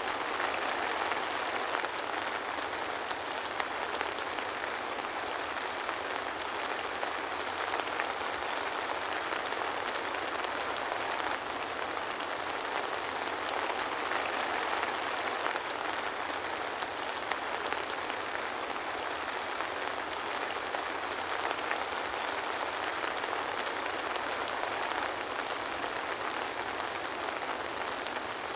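Steady soft rain: an even hiss with scattered drops pattering, no thunder.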